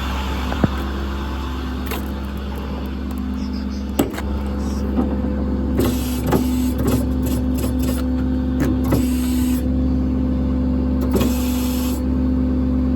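Steady motor hum and whine from the service truck, with scattered clicks and knocks; about six seconds in the hum steps up to a stronger, higher tone, as when a powered function is switched on.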